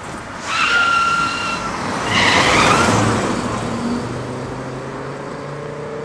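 Foley imitation of a skidding car made by rubbing a rubber hot-water bottle against a surface, giving tyre-squeal screeches. A steady pitched squeal comes about half a second in, a louder, rougher screech follows at about two seconds, then it settles into a lower, steadier drone.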